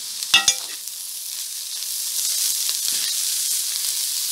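Vegetables and shredded chicken frying on high flame in a metal kadhai while a metal spoon stirs in the spices: two sharp ringing clinks of the spoon against the pan about half a second in, then a steady sizzle with scraping that grows louder.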